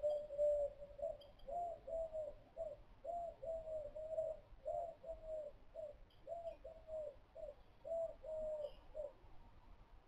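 A bird calling in a long, even run of short low notes, about two a second, stopping about nine seconds in. Faint short chirps from another small bird come now and then.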